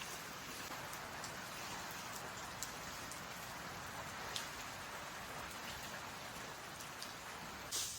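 Steady rain falling, with scattered single drops ticking. A short, louder burst of noise comes just before the end.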